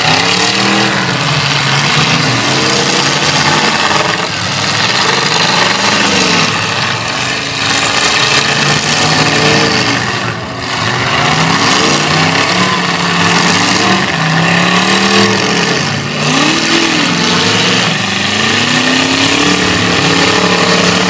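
Several demolition derby cars' engines revving up and down over and over, their pitch rising and falling every second or two.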